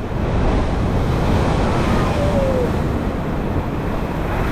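Heavy ocean surf breaking and washing over rocks: a loud, steady rush, with wind buffeting the microphone.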